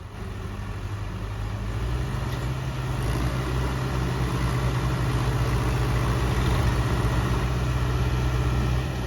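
Diesel tractor engine running hard under load in a tug-of-war pull, a steady low drone that builds over the first two or three seconds and then holds.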